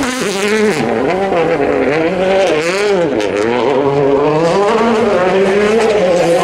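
World Rally Car turbocharged engine revving hard through a stage, the pitch rising and falling over and over as the driver shifts and lifts, with sharp pops in the middle.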